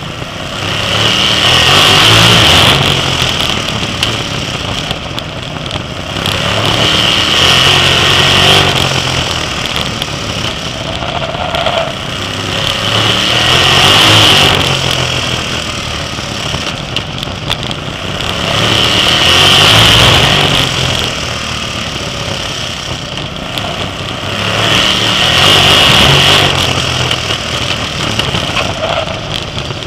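Sprint car V8 engines at racing speed. The engine note swells to full throttle and eases off again in a regular cycle about every six seconds, as the cars power down the straights and lift for the turns of a short oval.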